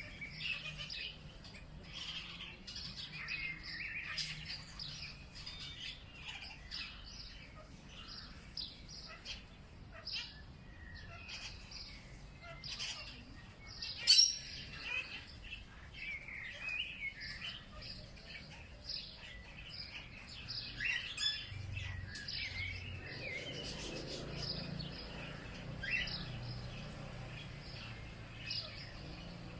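Several birds chirping and calling together in a dense, steady chorus of short notes, with one sharp louder call about halfway through. A faint low hum lies underneath, a little stronger near the end.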